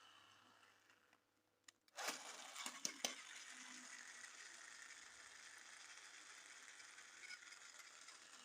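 Plastic toy or packaging being handled: a quick cluster of sharp clicks and crinkles about two seconds in, otherwise faint hiss.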